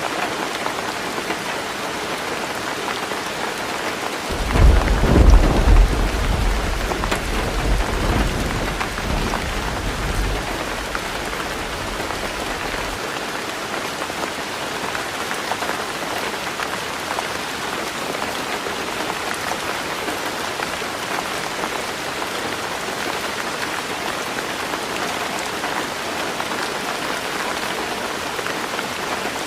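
Heavy rain drumming steadily on a tin roof, with a thunderclap about four seconds in that rumbles on and fades out over the next several seconds.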